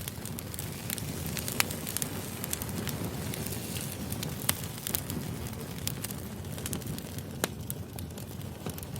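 Wood fire burning: a steady low rumble of flames with frequent irregular crackles and sharp pops from the burning logs, a few of them louder than the rest.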